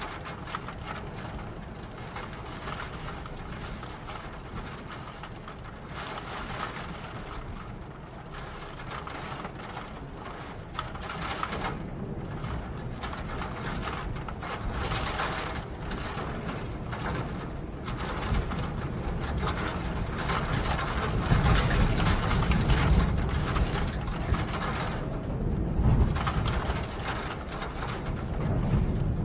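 Steady rain falling as a dense crackle of close drops, with a low rumble swelling in the last third.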